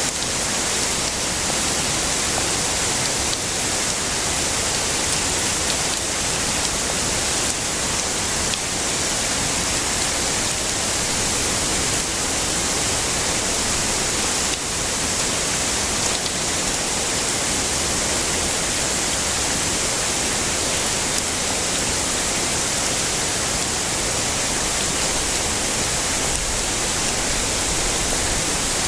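Heavy rain falling steadily, an even hiss with no single drops or thunder standing out.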